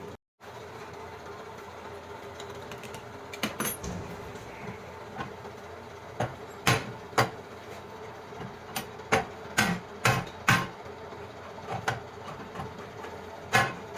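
Hammer blows, a dozen or so sharp, irregularly spaced knocks in small clusters, starting a few seconds in, over a steady workshop hum.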